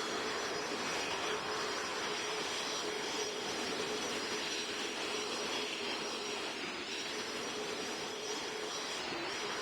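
Airbus A220 jet airliner on final approach: steady jet engine and airflow noise with a constant low hum throughout.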